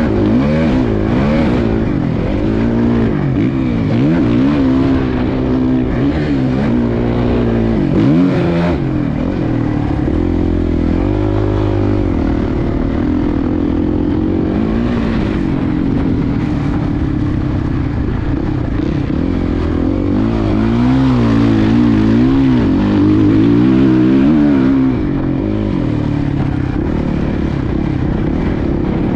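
Suzuki motocross bike's engine revving up and down over and over as it is ridden around the track, the pitch climbing and dropping with each burst of throttle and gear change.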